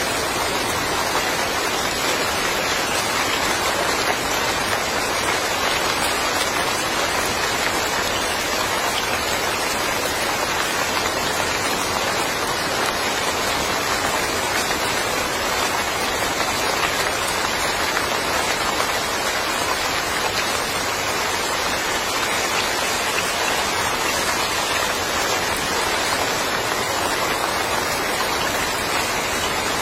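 Steady rain falling and pattering on surfaces in a yard, an even hiss with no let-up.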